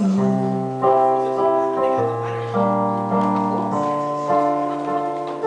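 Piano accompaniment playing alone between sung lines: sustained chords over low bass notes, a new chord struck every second or so.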